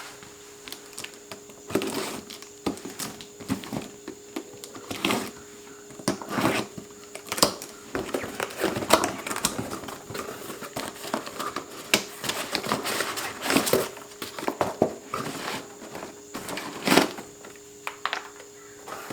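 Packaging being handled and pulled open around a new blower motor: irregular crinkling and rustling with scattered clicks and knocks, over a faint steady hum.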